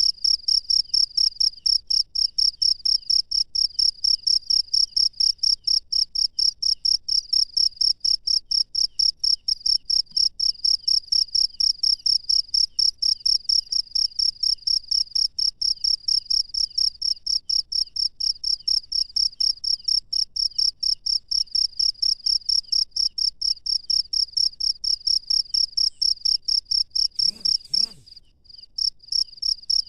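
A cricket chirping in a steady fast rhythm, about three high chirps a second. Near the end it stops for about a second around a brief low sound, then starts again.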